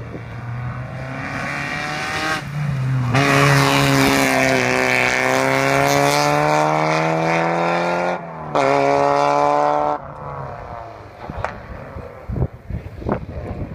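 Rally car engine at full throttle as the car approaches and passes, its pitch climbing. A brief cut about eight seconds in is followed by a lower, rising pitch, as in an upshift. The sound then fades as the car drives away.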